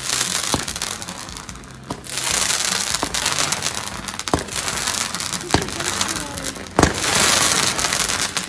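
Multi-shot aerial fireworks cake firing: a continuous rushing hiss as shells launch, broken by about six sharp bangs roughly a second apart.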